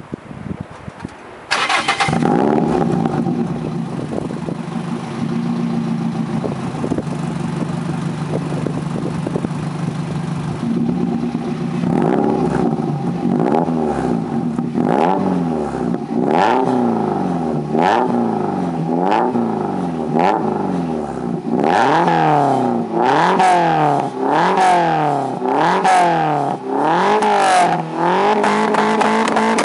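Toyota MR-S's 1.8-litre four-cylinder engine started through its exhaust: a short crank, the engine catching about a second and a half in, then idling steadily. From about eleven seconds in it is revved in repeated blips, each rising and falling in pitch, coming quicker and higher near the end.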